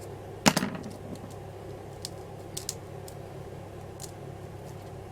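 A sharp knock about half a second in, then a few scattered light clicks and taps from small craft tools and materials being handled, over a steady low hum.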